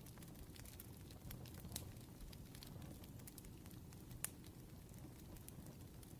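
Faint wood fire crackling, with a low steady rumble of burning and scattered sharp pops, the loudest about four seconds in.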